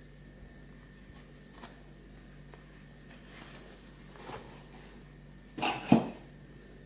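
Handling noises: faint small clicks and a soft rustle, then a short rustle followed by a louder thump near the end.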